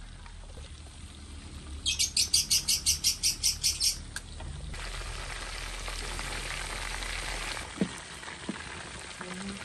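A bird calling a quick run of about a dozen sharp, high chirps, roughly six a second, for about two seconds. Then comes a steady hiss for about three seconds, with a couple of soft knocks near the end.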